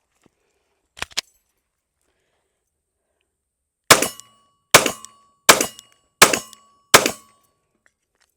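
Glock 43X 9mm pistol firing five shots in steady succession, about 0.75 s apart, each with a short ring-out. A pair of sharp metallic clicks comes about a second in, before the shots.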